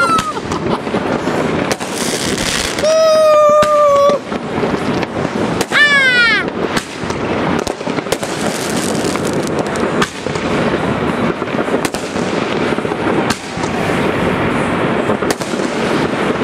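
Many fireworks and firecrackers going off at once: a continuous crackle with frequent sharp bangs, and three whistling fireworks, two of them gliding down in pitch.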